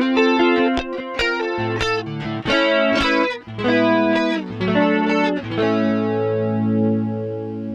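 Electric guitar through the MXR Rockman X100's clean channel with its chorus engaged: a phrase of picked notes and chords, then a chord held and left ringing with a slow chorus shimmer from about two-thirds of the way through.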